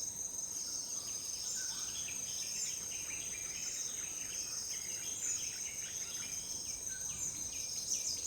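Chorus of crickets and other insects: several steady high-pitched trills layered over one another, with runs of short, quick chirps.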